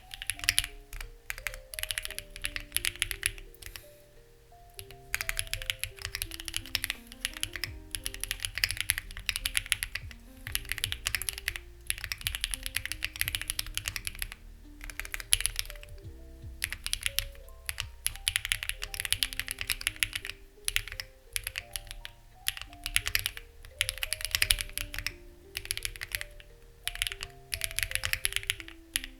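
Fast typing on a Lucky65 v2 mechanical keyboard with stock, unlubed HMX Ziwei switches and CMK-style keycaps: rapid runs of keystroke clacks, broken by brief pauses. Soft melodic background music plays underneath.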